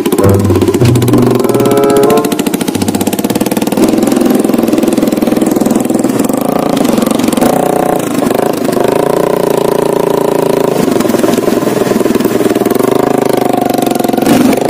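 Motorcycle engine running loudly and continuously. Its pitch shifts up and down around the middle, then holds steady.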